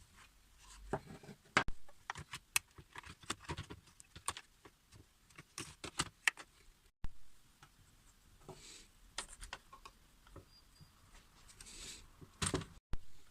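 Hand tools and small metal parts clicking, clinking and knocking at irregular intervals as a Husqvarna K770 power cutter is worked on by hand; no engine is running.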